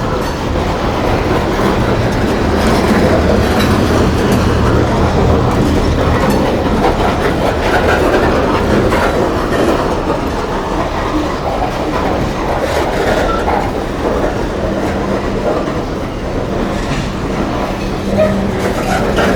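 Long freight train rolling steadily past, its car wheels clacking over the rail joints.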